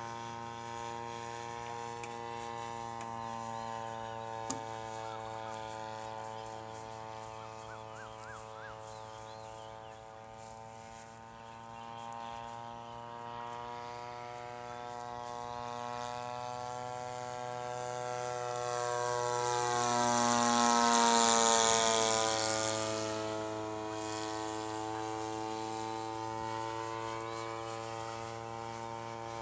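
Radio-controlled model airplane's grass-cutter engine buzzing steadily in flight. About twenty seconds in it passes close by, growing loud, and its pitch drops as it goes away.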